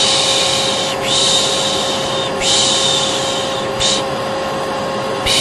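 A vacuum cleaner motor runs with a steady hum while a person shushes over it again and again ('piş piş'), the soothing shush used to settle a baby. There are four long hissing 'shh' sounds and one short one, each about a second long, and another begins near the end.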